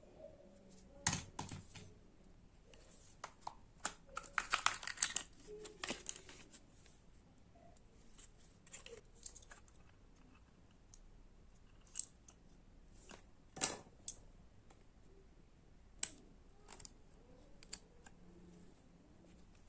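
Small sharp clicks, taps and rattles of plastic parts being handled and fitted, busiest about four to six seconds in, then single clicks every couple of seconds, from hand work on a wall socket's switch button during repair.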